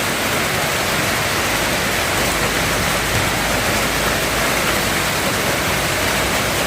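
Heavy rain falling, a loud steady downpour hiss.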